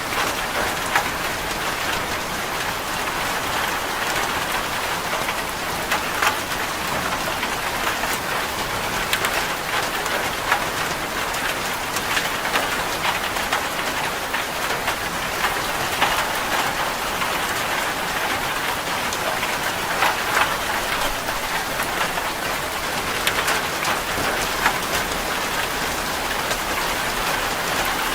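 Steady heavy rain drumming on a corrugated zinc roof, a dense even hiss with scattered sharper drop impacts on the metal.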